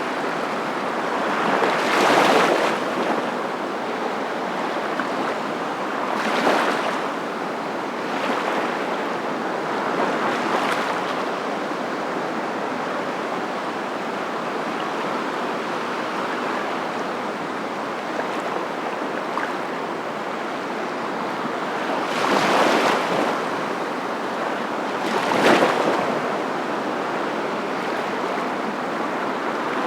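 Steady rushing of surf that swells several times at irregular intervals, as waves break.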